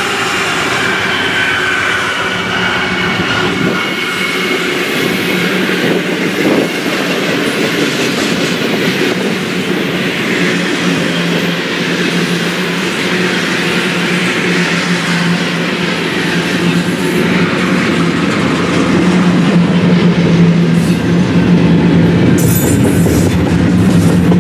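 BNSF double-stack intermodal train passing. The diesel locomotives' engine tones fade over the first few seconds, leaving the steady rumble and clatter of the loaded container well cars' wheels on the rails, which grows a little louder near the end.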